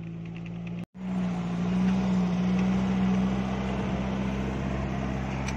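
Suzuki Vitara's engine pulling steadily up a dirt trail, first heard inside the cabin; after a sudden cut about a second in, it is louder, heard beside the front wheel with a steady rushing noise of tyres on dirt.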